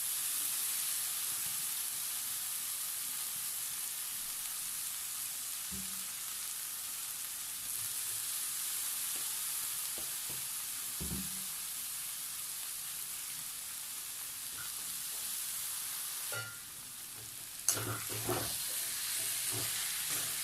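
Onion-tomato masala sizzling steadily in hot oil in a pan, with a couple of dull knocks from the stirring spoon. About three-quarters of the way through the sizzle drops off, followed by a quick run of spoon clicks and scrapes against the pan.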